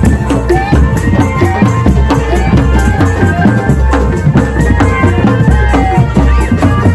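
Drum band music played loud: heavy bass drums and busy percussion, with rattling shakers and a sliding melody line over it.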